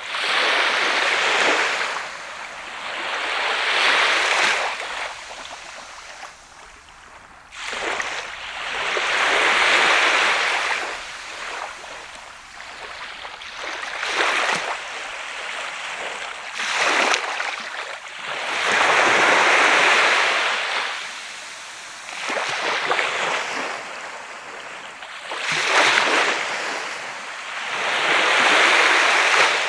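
Sea waves breaking and washing up on a sandy beach. The surf swells and falls every three to four seconds, some surges louder than others.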